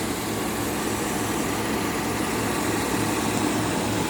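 A vehicle engine idling steadily, with a low hum that pulses about twice a second.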